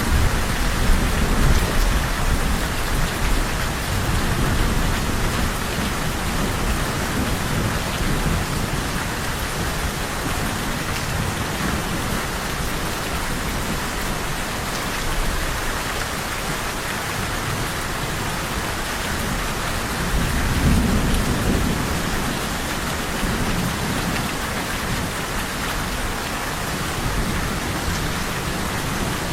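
Steady rain with low rumbles of thunder, loudest in the first few seconds and again about twenty seconds in.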